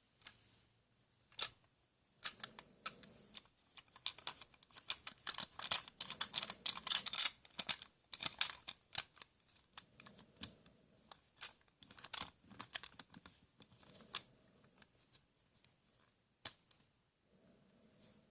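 Irregular clicks and taps of small hard objects being handled, coming thick and fast in the middle and thinning out towards the end.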